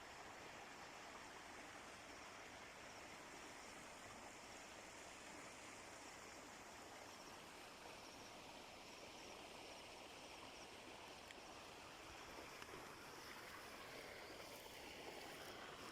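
Faint, steady rushing noise, like running water, with no distinct events.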